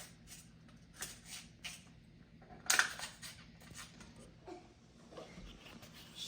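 Scattered light clicks and rustles from something being handled, the loudest a little under three seconds in, over a faint steady hum.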